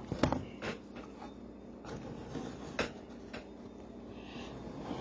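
A few light knocks and taps, about five spread over the few seconds, one a little louder near the middle, as a small wooden workpiece is handled and turned around.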